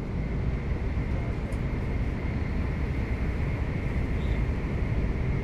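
Passenger-cabin noise of an N700S Shinkansen train running between stations: a steady low rumble with a faint, steady high tone above it.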